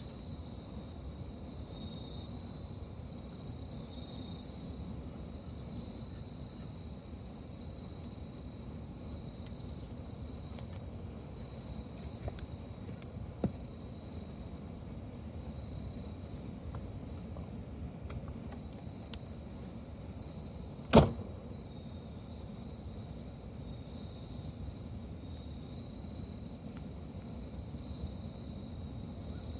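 Crickets trilling steadily at two high pitches over the soft low crackle of a wood campfire. A small click comes about halfway, and one sharp loud pop from the burning wood about two-thirds of the way through.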